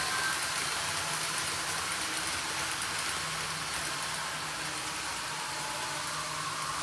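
Model train running on its track: a steady rolling hiss of metal wheels on rail with a faint low motor hum.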